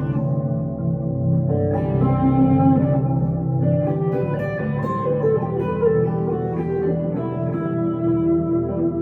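Electric guitar, a 1962 Gibson Les Paul Custom played through a Two-Rock Emerald Pro tube amplifier, playing held chords and single notes that change every second or two.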